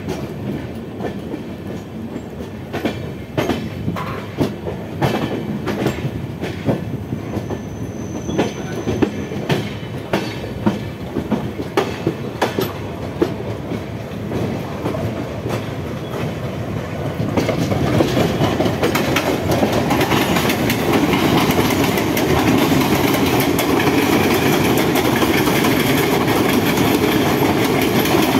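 Mumbai EMU local train wheels clicking over rail joints and points at uneven intervals, heard from on board the train. About seventeen seconds in, this gives way to a louder, steady rumble as another EMU train runs past close by.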